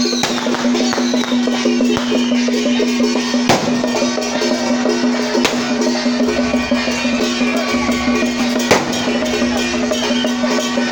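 Traditional temple procession music: drums and clacking wood-block-like percussion struck over a steady held tone, with occasional sharp louder hits.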